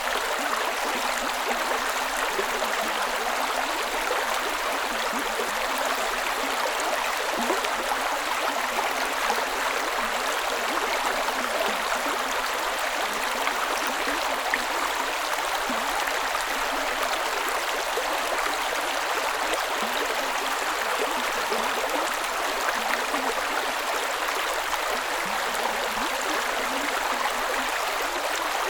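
Creek water running steadily over rocks, a constant rushing with small gurgles and splashes.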